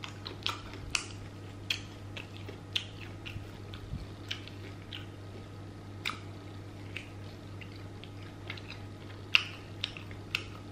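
Close-up mouth sounds of someone biting and chewing fried chicken: irregular sharp crunches and wet smacks, over a steady low hum.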